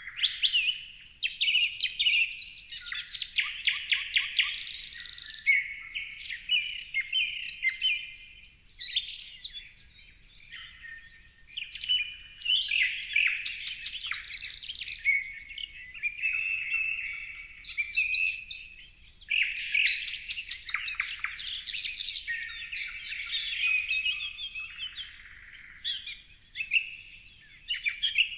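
Birds chirping and trilling in a busy, overlapping chorus of high whistles and rapid clicking trills, rising and falling in bursts.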